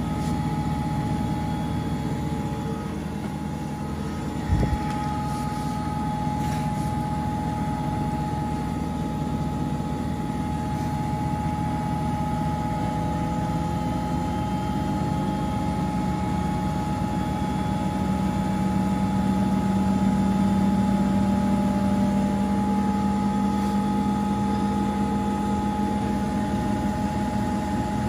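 Front-loading washing machine running a wash: a steady motor whine over a low hum, with a single knock about four and a half seconds in. The low drone swells somewhat past the middle.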